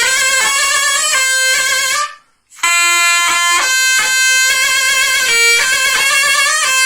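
Zurna playing a halay folk dance melody over steady davul drum beats. The music cuts out abruptly about two seconds in and starts again half a second later.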